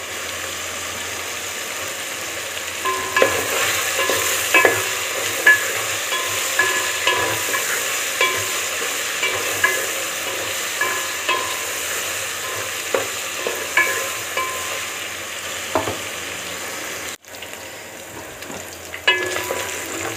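Chicken pieces sizzling in a cooking pot while a spoon stirs them. The spoon knocks against the pot with short ringing clinks, about once a second.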